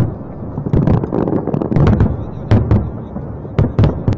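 Fireworks display: aerial shells bursting one after another at irregular intervals, sharp bangs over a continuous low rumble.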